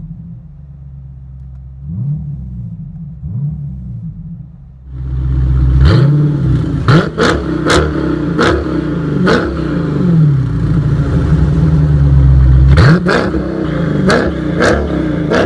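Dodge Challenger SRT 392's 6.4-litre V8 through a Tunnel Ram performance exhaust, blipped in short revs at first. About five seconds in it becomes much louder and runs hard under throttle, punctuated by repeated sharp cracks.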